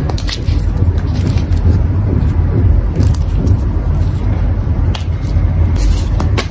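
Gym chalk being crushed and crumbled by hand close to the microphone: a steady low rumble with a few crisp crunches, about a second or two apart.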